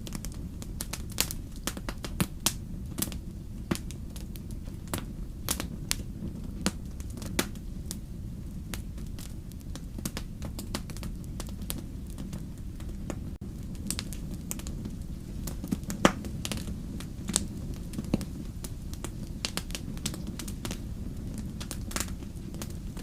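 Fire crackling: irregular sharp pops and snaps, several a second, over a steady low rumble of the flames, with one louder pop a little past the middle.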